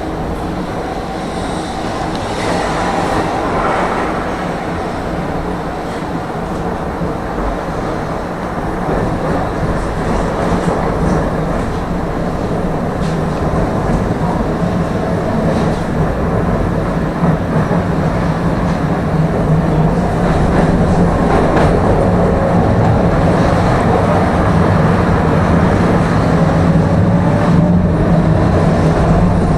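Tram running along its track, heard from inside the car: a steady rumble of wheels on rails under a hum, with a few sharp clicks. The motor whine glides up in pitch in the last few seconds as the tram picks up speed.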